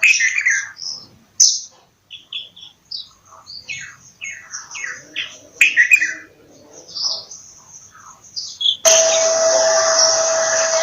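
Bulbul calling: a quick, irregular series of chirps and short whistled notes, some sliding in pitch. About nine seconds in, a loud steady hiss with a constant hum starts abruptly and carries on.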